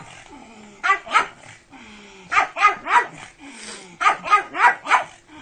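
A dog barking in three quick volleys of three or four sharp barks each, with short pauses between the volleys.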